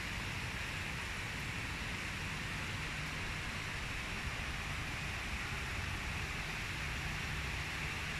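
Rain falling steadily, a constant even hiss, with a low rumble underneath.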